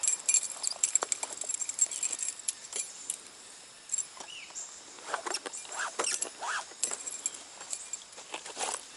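Irregular clicks, taps and light rattles of fishing tackle being handled while a hooked brown trout is brought in, with a few short squeaks midway.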